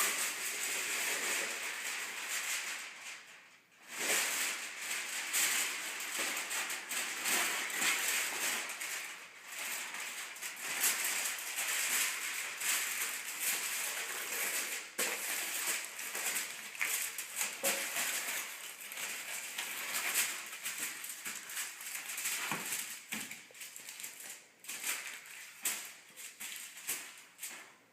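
Aluminum foil crinkling and rustling as it is wrapped and pressed around a pan, with a short lull about four seconds in.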